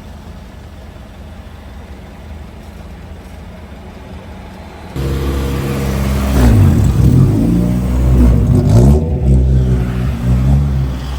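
A few seconds of low background noise, then loud car engine exhaust cuts in about five seconds in. The engine is revved up and down a couple of times before settling back.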